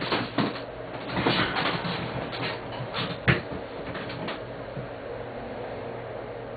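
A run of irregular clicks and knocks, the sharpest about three seconds in, over a steady electrical hum and room noise. The knocks stop after about four seconds, leaving only the hum.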